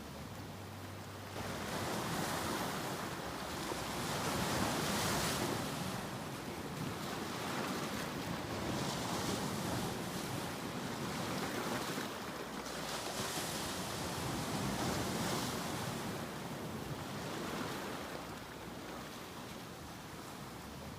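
Ocean surf, with waves breaking and washing in. The sound swells and eases every few seconds.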